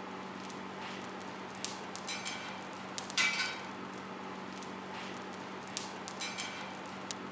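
Light metallic clinks with a short ring, a few scattered and irregular, the loudest about three seconds in, over a steady low hum. These are metal tools or steel knocking together at a blacksmith's forge.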